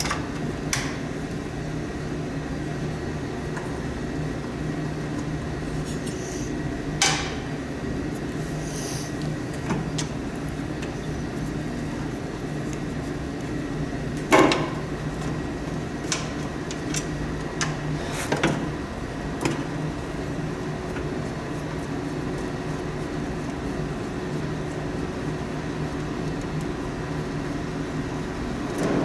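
A steady low hum throughout, with a handful of short, sharp knocks and clinks of hand tools on the snowblower's metal parts during the teardown, the loudest about halfway through.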